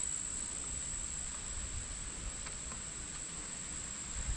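A steady, unbroken high-pitched trilling from insects in the garden, with a low rumble underneath.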